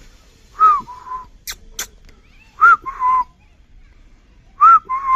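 Indian peafowl (peacock) calling three times, about two seconds apart, each call a short two-part cry: a rising-and-falling note straight into a lower held note. Two sharp clicks come between the first and second calls.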